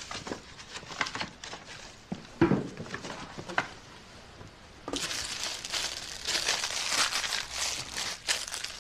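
Plastic crinkling and rustling: a few light rustles and clicks at first, then from about halfway a continuous crackling as the plastic is handled.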